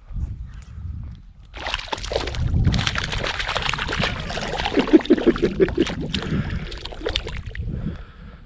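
Water splashing and sloshing in shallow lake water, a busy run of splashes that starts about a second and a half in and eases off near the end.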